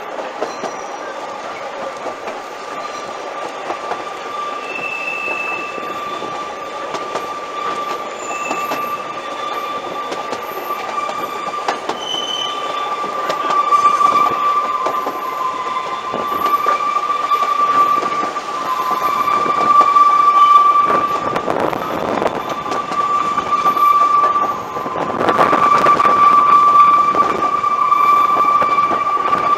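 Narrow-gauge steam train running past, its wheels giving a steady high-pitched squeal, with short higher squeaks over it. It grows louder from about halfway through as the train comes close.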